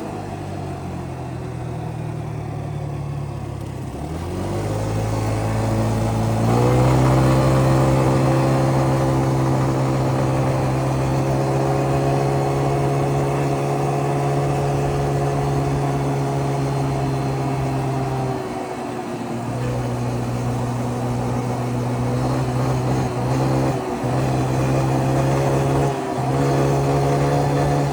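Small engine of a Yamaha Grizzly 125 youth ATV under way. It slows at first, then picks up speed about four seconds in and runs at a steady pitch. In the second half the throttle is let off briefly several times.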